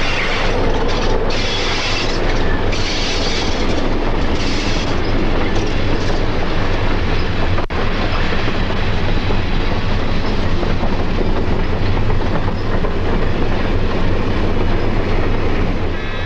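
South Shore 'Little Joe' electric locomotive and caboose running on the rails: a steady rumble of steel wheels with clickety-clack. The sound breaks off for an instant about eight seconds in.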